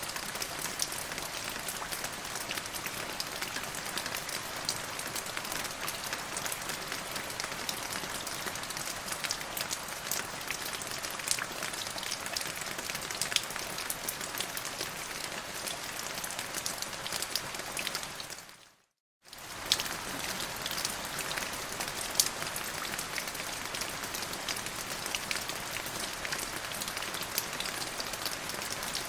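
Steady rain falling, an even hiss with many individual drops clicking sharply through it. About two-thirds of the way in it fades out to silence for under a second, then comes straight back.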